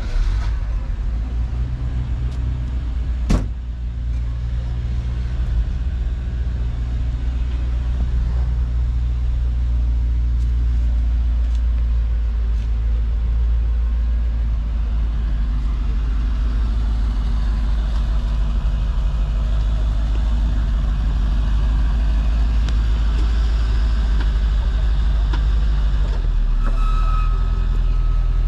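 Car engine running steadily at a low idle, with a sharp click about three seconds in and a change in the engine note near the end.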